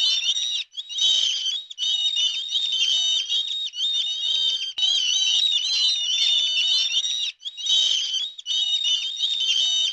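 Many birds calling at once, a dense chorus of high-pitched overlapping peeps and chirps with a few brief gaps.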